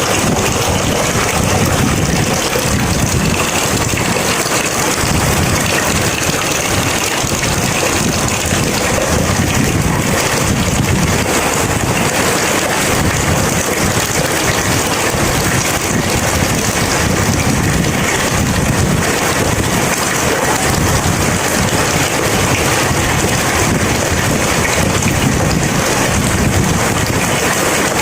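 Steady heavy rain falling during a thunderstorm, an even, dense hiss with a constant low rumble underneath.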